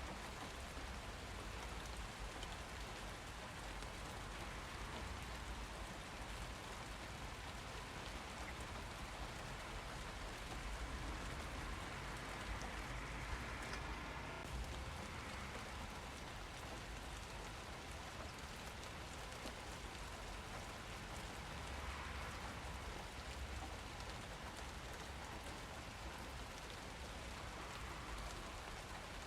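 Steady rain falling: an even, continuous hiss of drops on surfaces, with no breaks or pauses.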